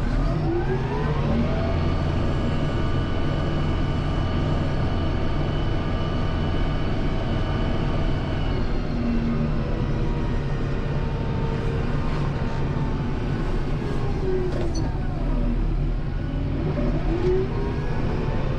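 Kubota M7060 tractor's diesel engine working under throttle, its pitch rising in the first couple of seconds, holding steady, then dropping and climbing again near the end as engine speed changes.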